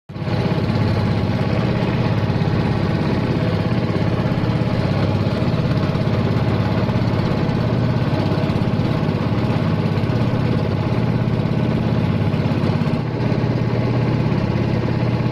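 A small engine running steadily at constant speed, with a fast, even beat.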